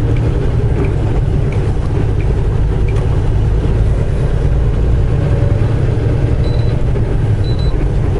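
Semi truck's diesel engine and road noise heard from inside the cab while driving, a steady low hum. Three short high beeps about a second apart near the end.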